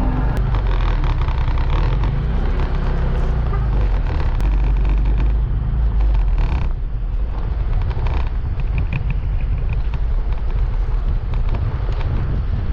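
Motor scooter running along the road, a steady, loud engine and road noise while riding.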